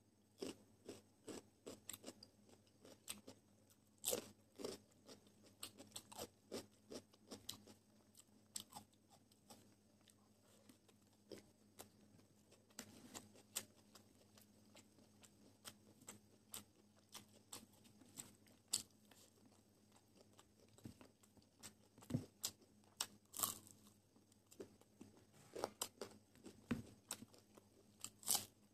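Close-miked eating: a person chewing and crunching a meal of dry-fried chicken drumsticks, fried rice and fresh salad greens eaten by hand, with many short, irregular crunches and wet mouth clicks.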